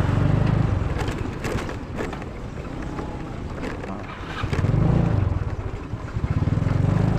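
Motor vehicle running, a low rumble that swells and fades several times, with a few brief clicks.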